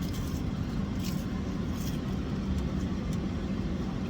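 Steady low rumble of a car engine idling, heard from inside the cabin, with a few faint light clicks.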